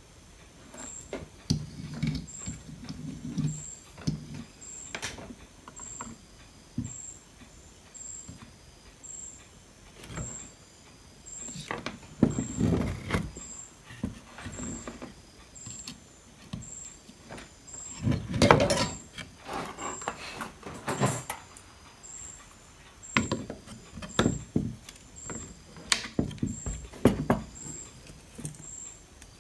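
Irregular clicks, knocks and scrapes of tools and electronic parts being handled on a workbench during circuit-board repair, with a louder clatter around the middle.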